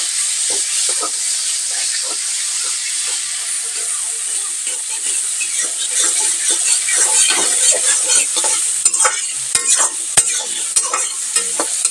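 Chopped tomatoes sizzling in hot oil in a metal kadhai, stirred with a metal spatula that scrapes against the pan throughout. A few sharp knocks of the spatula on the pan come near the end.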